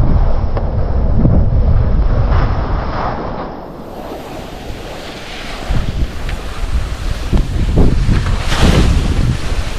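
Strong wind buffeting the microphone during a ski descent, with the hiss of skis sliding and scraping on wet snow. The rumble eases for a moment about four seconds in, then comes back in gusty surges with louder scraping hiss near the end.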